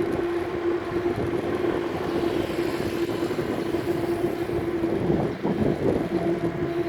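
Riding noise from a moving bicycle, with wind on the microphone and tyre and road rush under a steady low hum.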